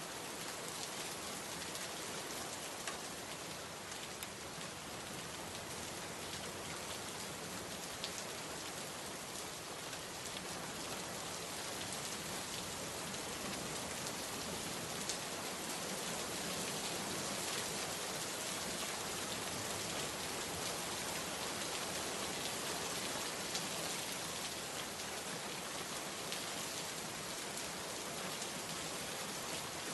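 Steady heavy rain falling on surfaces, a dense even hiss with scattered drop ticks, no thunder.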